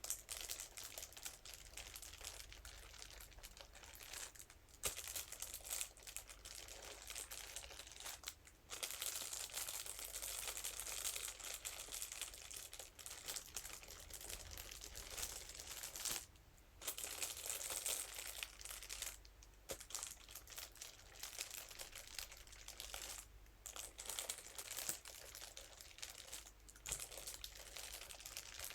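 Scalp massage brush scratching and rubbing over a crinkly material, giving a dense crackling crinkle broken by a few short pauses.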